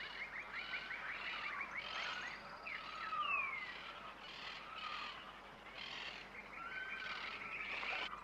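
Several birds calling: a rapid ticking trill in the first couple of seconds, then falling whistled notes and repeated chirping calls.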